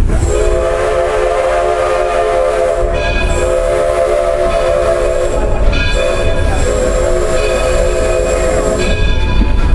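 Steam locomotive whistle blown in three long blasts, each a chord of several steady tones, over the low rumble of the moving train.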